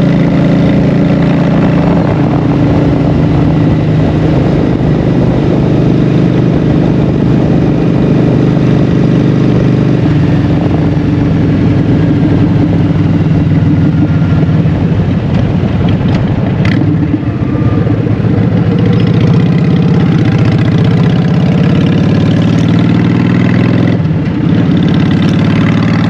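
Honda Shadow 750's V-twin engine running through Vance & Hines Short Shots exhaust pipes, a steady deep exhaust note that drops in pitch about ten seconds in and shifts again later on.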